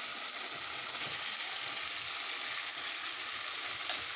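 Onion-and-spice masala sizzling steadily in hot oil in a pan as fried cauliflower florets and potato pieces are tipped in.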